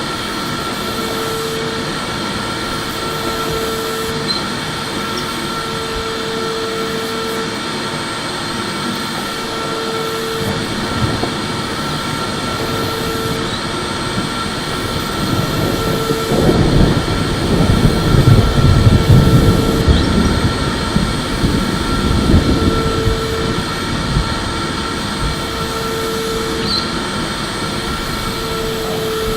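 Vacuum cleaner running continuously with a steady motor whine. Past the middle it grows louder and rougher for several seconds, then settles back.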